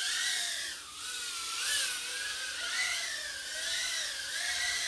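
Mobula 6 tiny whoop quadcopter flying: its four 19000kv brushless motors and small propellers whine, and the pitch rises and falls continuously with the throttle. There is a short throttle dip about a second in.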